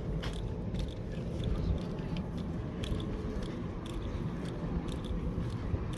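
Wind buffeting the phone's microphone as a steady low rumble, with scattered light clicks and crunches.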